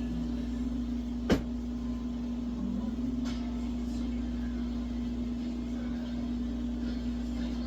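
Steady mechanical hum with a low rumble under it, broken about a second in by one sharp knock.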